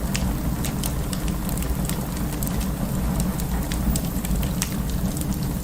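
Wood fire burning in an open fireplace: a steady low rumble of flames with many sharp crackles and pops.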